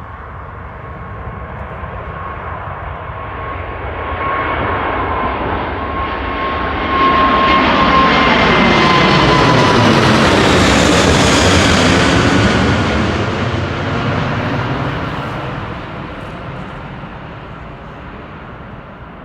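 Airliner's jet engines passing by at close range: the noise swells to a loud peak about halfway through, then fades away. A whining tone drops in pitch as the aircraft goes past.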